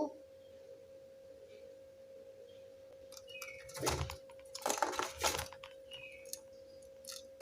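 Faint crackling and rustling clicks for about two seconds in the middle, over a steady faint hum; no cooing.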